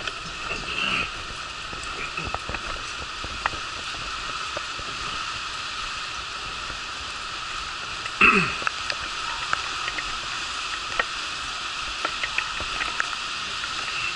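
Steady hiss of rain falling around a covered concrete ramp, with scattered ticks of dripping water. About eight seconds in there is a brief, louder sound that falls in pitch.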